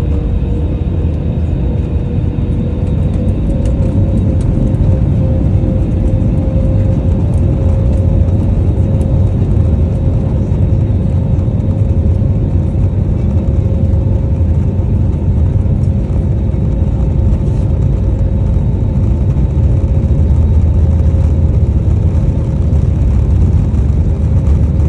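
Airbus A320-271N's Pratt & Whitney PW1100G geared turbofan engines running: a steady tone over a heavy low rumble. The tone rises slightly in the first few seconds, then holds.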